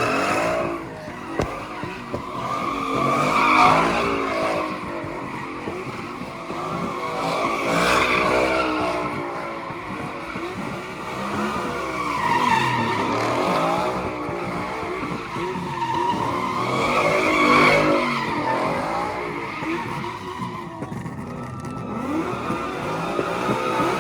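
A car doing donuts with tires squealing continuously, its engine revving up and down in waves about every four to five seconds.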